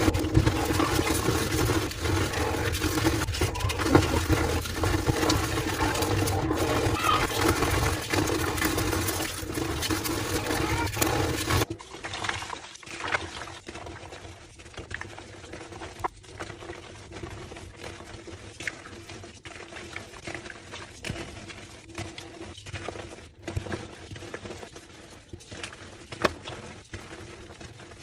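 Homemade gym chalk slabs being crushed and crumbled, a dense gritty crunching for about twelve seconds, then a sudden change to quieter, scattered crunches and squeaky crackles.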